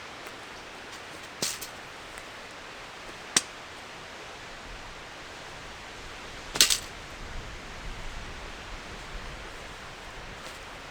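Wood fire crackling: three sharp pops over a steady hiss, the third the loudest, followed by a run of lighter crackles.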